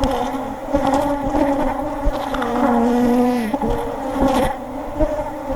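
Honeybees buzzing loudly around an opened hive, a colony agitated and defensive during the inspection. The pitch of the buzz wavers and dips as bees fly close past, with a few light knocks.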